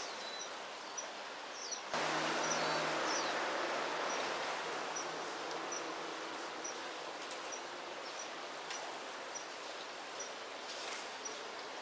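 Outdoor riverside ambience: a steady rushing noise with an insect giving short, high chirps about twice a second. About two seconds in, a louder rush with a low hum rises and slowly fades away. A few brief high calls come near the end.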